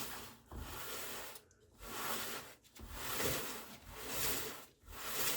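The scooter's rear drive is spun over and over by hand, a whirring swish about once a second, now turning freely without dragging on the wheel.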